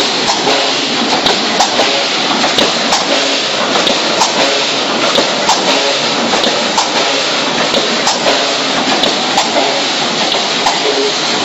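Automatic wire mesh welding machine running, spot-welding steel wires into mesh: a steady mechanical clatter with frequent sharp clacks.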